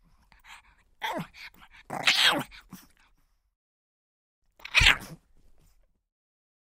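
Pug making short noises: two close together between one and two and a half seconds in, the second louder, then a single sharp, loud one near five seconds in.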